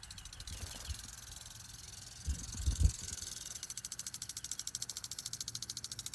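Garden sprinkler spraying water: a steady hiss with a fast, even ticking. A couple of dull low thumps come a little past two seconds in.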